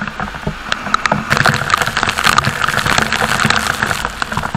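Heavy rain on a moving scooter: raindrops strike the camera in a rapid spatter of clicks over a steady hiss of downpour, which grows louder about a second in.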